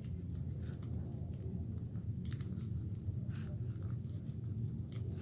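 Faint scattered clicks and scrapes of sticky slime paste being stirred in a bowl, over a steady low hum.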